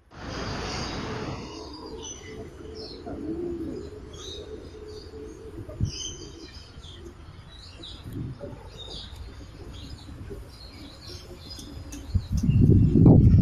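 Many caged birds chirping and twittering in short high calls, with a low dove-like coo a few seconds in. A rush of noise at the start and a loud low rumble near the end.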